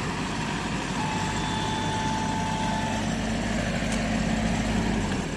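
Combine harvester engine and machinery running steadily with a low drone. A thin high whine sounds for about two seconds, starting about a second in.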